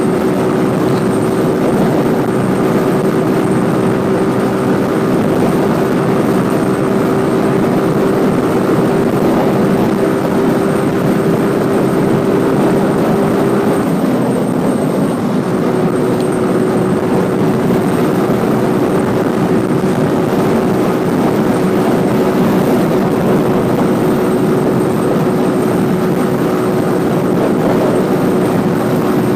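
Motorcycle engine running steadily while riding, heard from a helmet-mounted camera over a steady rush of noise. Its note breaks briefly about halfway through and then carries on slightly lower.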